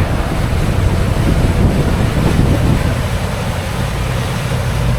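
Fishing boat's engine running steadily while underway, with wind buffeting the microphone and water noise over a constant low hum.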